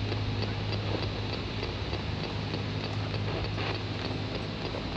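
A steady low electrical-sounding hum with faint, evenly spaced ticking, about three ticks a second.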